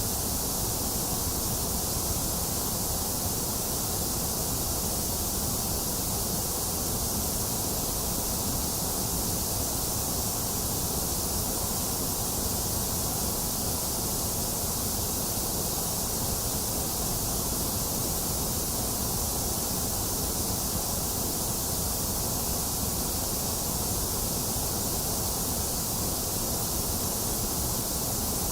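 Steady, unchanging white noise: an even hiss with no breaks.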